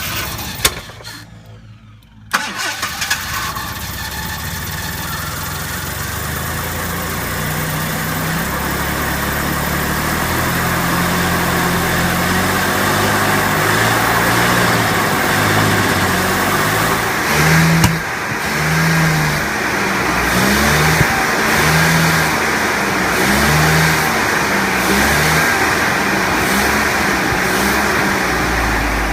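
Jaguar XJ6 straight-six engine cranked by the starter, catching about two seconds in and then running steadily. In the second half it is revved repeatedly, the pitch rising and falling about once a second.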